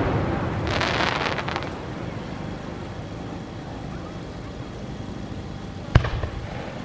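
Aerial fireworks: the rumble of a shell burst dies away, with a brief crackle of popping stars about a second in. Near the end a single sharp bang as the next shell is fired.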